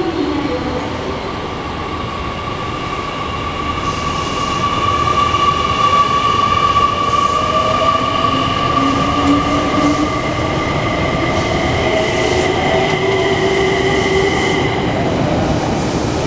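JR Kyushu 885 series electric express train pulling out of the platform and picking up speed. High steady squealing tones sound throughout, and from about halfway a motor whine rises in pitch as the train accelerates. Faint wheel clicks recur over the rail joints.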